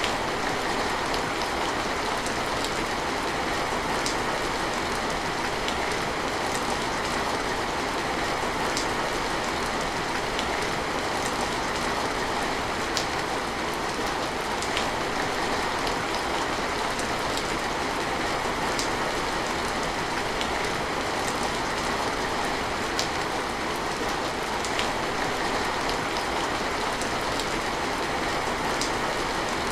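Steady heavy rain, a continuous even hiss with scattered sharp drop ticks.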